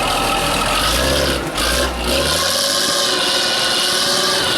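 Off-road trial truck's engine running hard at high revs, with a steady mechanical whine; its deep low rumble drops away about halfway through while the higher whine carries on.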